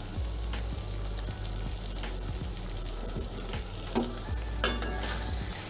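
Okra in a thick peanut-masala gravy sizzling softly in a steel kadai on the gas stove, with one sharp click about four and a half seconds in.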